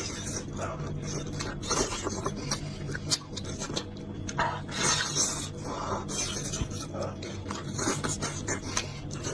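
Close-up eating sounds of someone chewing and gnawing on a beef trotter: short irregular mouth noises, with a steady low hum underneath.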